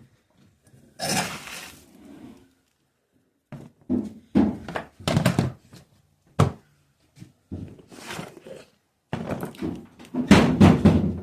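A series of thunks, knocks and scrapes from objects being handled in a small room, with one sharp knock about six seconds in and the loudest clatter near the end.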